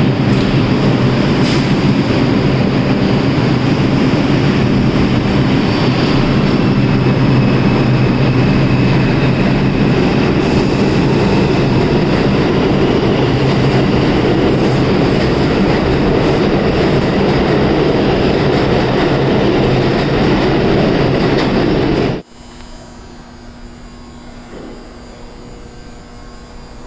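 A New York City Subway train running loudly and steadily through a station, a dense rumble of wheels on rail under a steady low motor hum, with a faint high squeal in the middle. Near the end it cuts off abruptly to a much quieter station hum.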